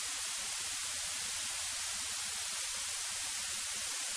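Steady static-like hiss of a light aircraft's cockpit intercom audio during a landing approach, with a faint low hum underneath that fades out near the end.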